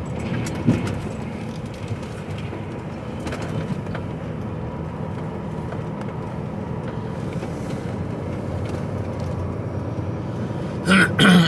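HGV truck driving steadily, its engine and road noise a constant low drone heard from inside the cab.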